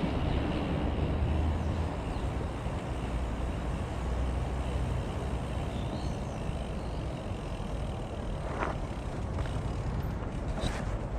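Steady rumble of wind on the microphone over the noise of a bicycle rolling along a path, with a short click about two-thirds of the way through.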